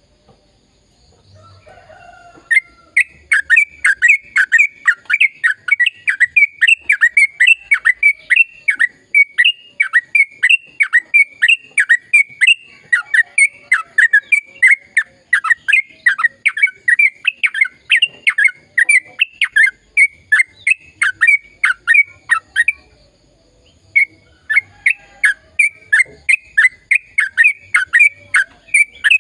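Sooty-headed bulbul (trucukan) singing a long, rapid run of repeated downward-sweeping notes, about three a second. It starts a couple of seconds in, breaks off briefly about 23 seconds in, and then goes on.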